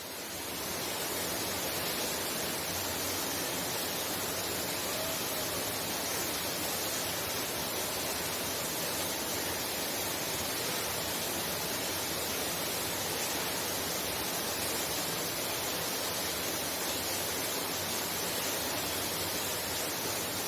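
Heavy rain falling steadily, heard from inside a house: a dense, even hiss that fades in over the first second and then holds level.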